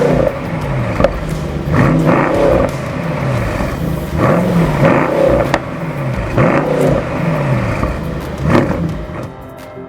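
A high-performance German car engine with a sport exhaust revved hard about five times, each rev rising and falling in pitch, with sharp exhaust crackles between revs. It fades out near the end.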